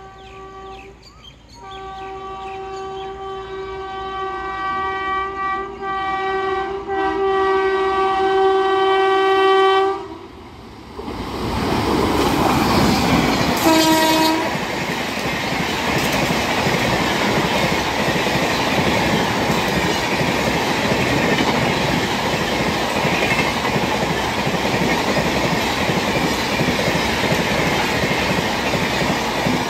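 An Indian Railways WAP7 electric locomotive sounds its horn as it approaches: a short blast, then one long blast that grows louder. About a third of the way in the express train rushes past close by, giving a short horn blast near the middle. After that comes the steady rumble and clickety-clack of its coaches passing at speed.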